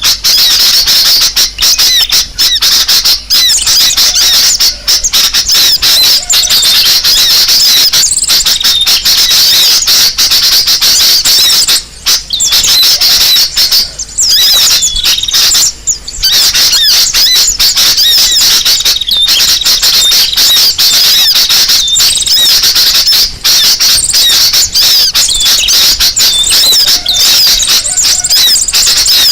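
Bird-lure recording of a noisy crowd of small birds calling at once: a loud, unbroken chatter of rapid, high squeaky calls, the busy din played to draw birds in.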